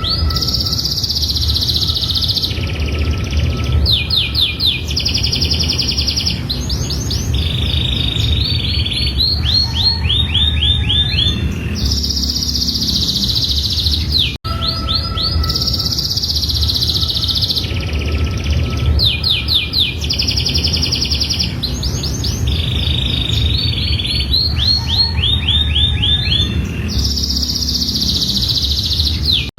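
Domestic canary singing a long, unbroken song of rapid high trills and rolling, sweeping phrases over a steady low hum. A brief dropout about fourteen seconds in restarts the recording, which then repeats the same song.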